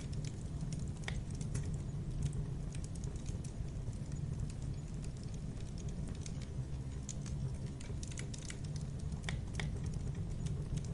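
Campfire burning: wood crackling and popping in frequent irregular snaps over a steady low rumble of the flames.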